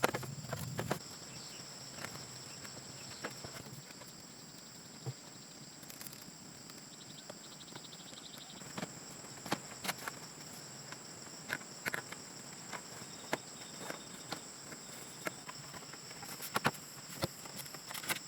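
Steady high-pitched drone of insects, with a brief fast chirping trill partway through, over scattered light clicks and knocks of handling or footsteps.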